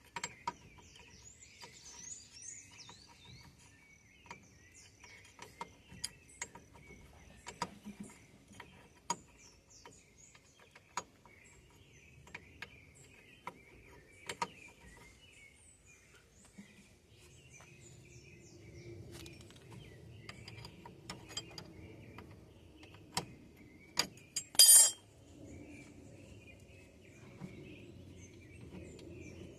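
Scattered light clinks and knocks of metal tools and parts being handled during brake and wheel work, with one loud ringing metal clank about 25 seconds in. Insects trill steadily and birds chirp in the background, and a low rumble comes in after the middle.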